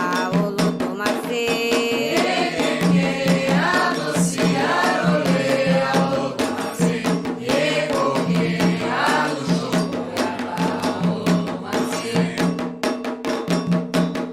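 Candomblé chant: voices singing a ritual song over drums and a steady beat of percussion strikes.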